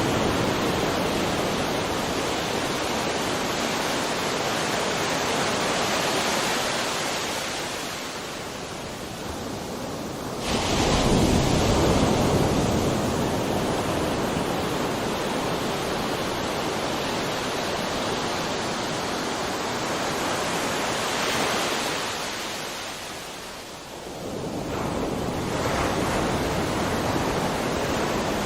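Sea waves washing on a shore in a continuous rush of surf. It ebbs, then a wave breaks loudly about ten seconds in. Near the end it lulls again and swells back.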